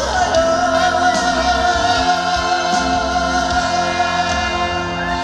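Male trot singer singing live over band accompaniment, holding one long note through the first few seconds.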